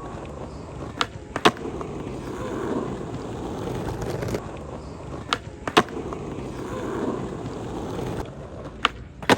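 Skateboard wheels rolling on concrete. Three times the board gives a pair of sharp clacks about half a second apart, a tail pop and then the landing.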